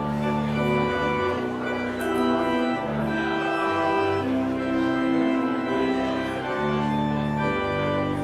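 Church organ playing the postlude after the benediction: slow, held chords over deep sustained bass notes, changing about every second.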